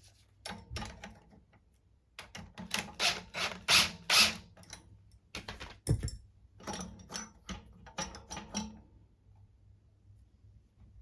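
Metal clicks and rattles from handling an X13 blower motor and its belly-band mounting bracket, in several clusters, with one heavier knock about six seconds in.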